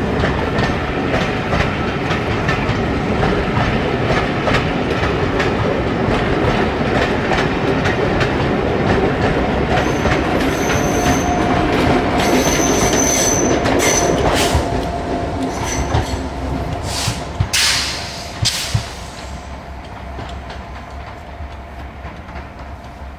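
Passenger coaches rolling past on curved track, the wheels clicking over rail joints, with thin wheel squeals from about ten seconds in. The sound then fades as the train draws away into the tunnel, with a few sharp clicks just after the middle.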